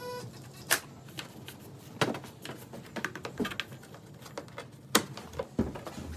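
Irregular clicks and knocks of hand tools and metal parts being handled during engine work, with sharp louder strikes about a second in, two seconds in and near five seconds.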